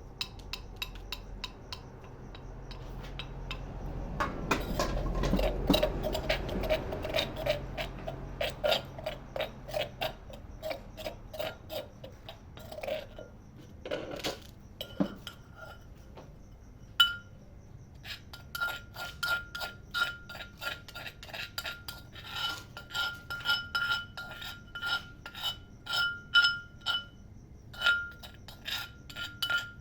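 Pestle pounding in a mortar, crushing chilies, shallots and garlic into a paste: a steady run of strikes, about two a second later on, each with a short ringing clink.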